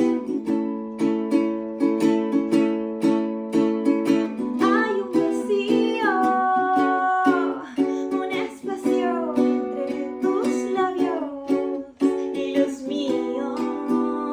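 Acoustic string instrument strummed in a steady rhythm. From about four seconds in, a woman's voice joins, singing a melodic line with long held and gliding notes but no clear words. The voice drops out shortly before the end and the strumming carries on alone.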